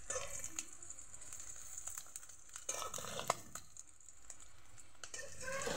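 Fish-roe pakoras sizzling in shallow oil in a wok, turned over with a metal spatula that scrapes the pan. The sizzle is steady, with a few sharp scrapes about three seconds in.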